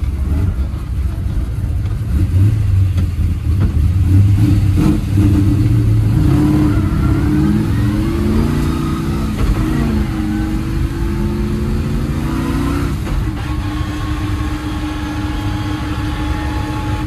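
1957 Chevrolet's freshly built V8 engine driving off, its revs climbing about a third of the way in, dropping back near the middle, then holding steady.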